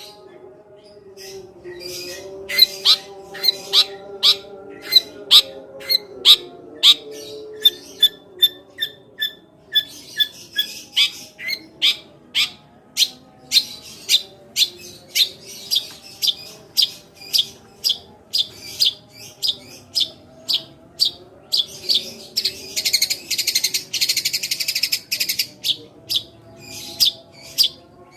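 Long-tailed shrike (cendet) singing a run of sharp, piercing chip notes, about two a second, in the sparrow-like 'tembakan' style, with a burst of dense rapid chatter near the end. A faint steady low drone lies underneath.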